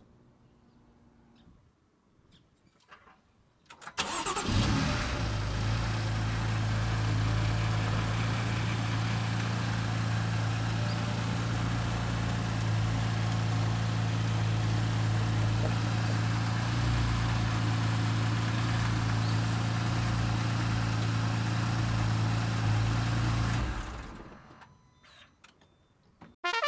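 A BMW M4's twin-turbo straight-six engine is started about four seconds in, with a brief flare on starting, then idles steadily for about twenty seconds before it is switched off and runs down.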